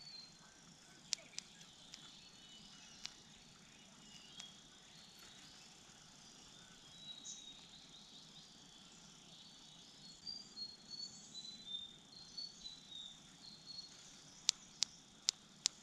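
Small birds giving short, high chirps, scattered and thickest in the second half, over a faint steady insect hum. Four sharp clicks come in quick succession near the end.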